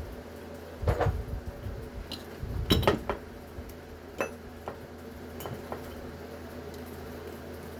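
Metal parts of a washing machine motor clinking and knocking as they are handled and pried at by hand: a few separate clinks, the loudest cluster about three seconds in, over a steady low hum.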